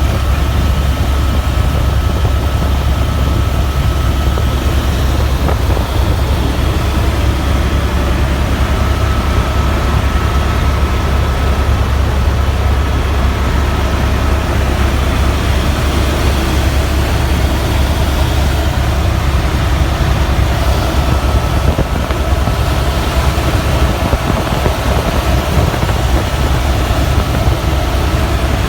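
Helicopter heard from inside the cabin: a loud, steady low drone of rotor and engine, with a faint steady high tone through the first half.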